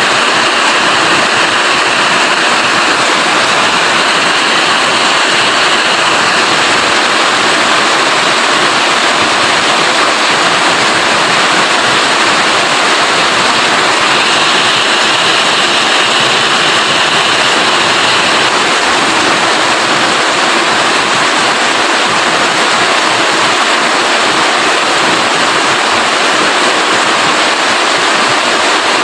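Steady rain falling, a loud, dense, even hiss that runs without a break.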